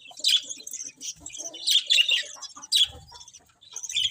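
Budgerigars chirping in short, high bursts, several calls a second with brief pauses between clusters.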